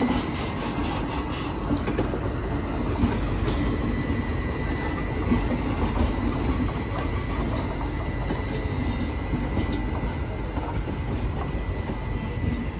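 Express passenger train rolling along the track: steady wheel-on-rail rumble with a thin, steady wheel squeal and scattered clicks of wheels over rail joints.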